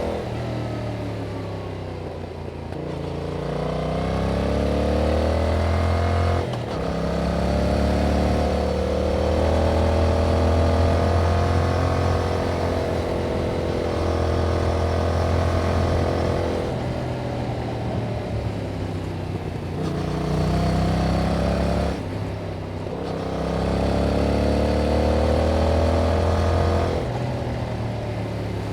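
Yamaha MT-07's 689 cc parallel-twin engine through its stock exhaust, the bike under way and accelerating through the gears. The engine note rises, breaks briefly at an upshift about six seconds in and again about 22 seconds in, and falls as the throttle closes around 17 seconds and near the end.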